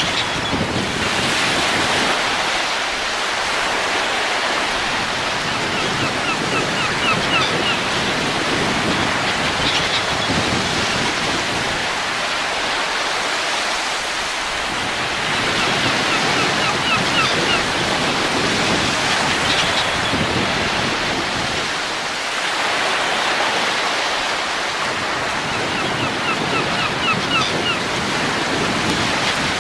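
Steady rushing wind that swells and eases every several seconds, with a faint run of quick chirps recurring about every ten seconds.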